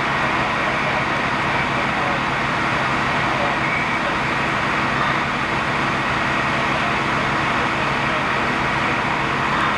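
A large engine or motor running steadily, a constant low hum with a hiss over it and no change in level.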